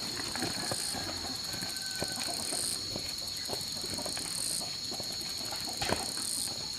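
Forest insects droning steadily at a high pitch, with a fast pulsing trill that comes and goes in stretches of about two seconds. Underneath are scattered light crackles and rustles of leaves and twigs, with one sharper snap near the end.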